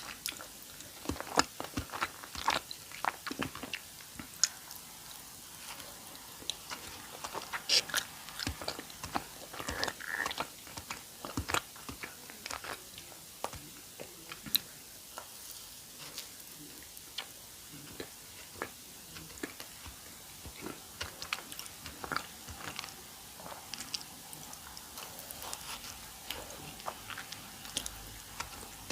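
Close-miked mouth sounds of eating a custard-filled doughnut: irregular wet smacks, clicks and chewing, the loudest a little after the start and around the middle.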